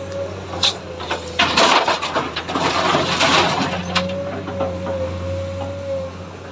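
Komatsu hydraulic excavator working: a steady engine drone with a thin, steady whine, and a loud rushing, rattling noise from about one and a half seconds in to about four seconds in, with a few sharp clicks.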